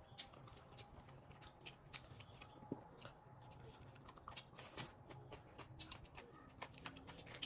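Faint eating sounds: irregular crisp clicks and crunches of chewing, with lettuce leaves crinkling as they are folded around steak. The loudest crunch comes a little before five seconds in.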